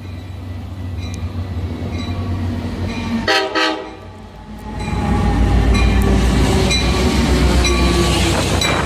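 Train horn sounding one short blast a little over three seconds in. About five seconds in, a train passes close with a loud low rumble, clickety-clack of wheels and thin high squealing tones.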